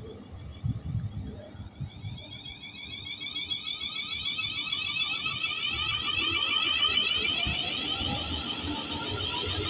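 High-pitched ringing whine from an approaching train. It holds several tones with a fast wobble and grows louder over about seven seconds, easing slightly near the end.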